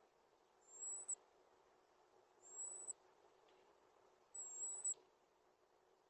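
A bird's high, thin whistled note, held about half a second and rising slightly at its end, repeated three times at even intervals, over faint background hiss.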